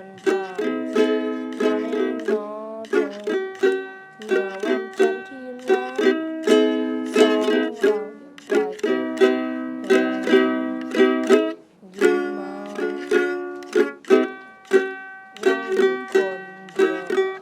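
Ukulele playing an instrumental passage of a song, with plucked and strummed chords in a steady rhythm.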